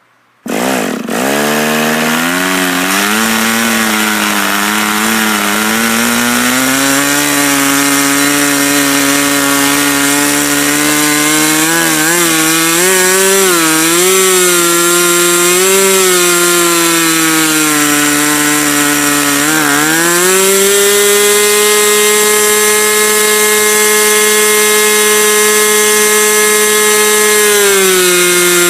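ASP 40 two-stroke glow model airplane engine starting about half a second in, then running loud with its pitch wavering up and down. About 20 seconds in it climbs to a higher, steady pitch, and it eases down a little near the end.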